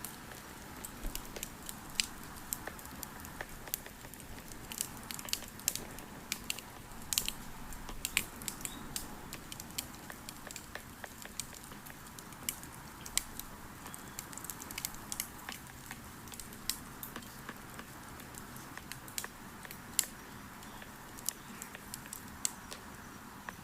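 Wood bonfire crackling: irregular sharp pops and snaps over a steady low hiss of burning.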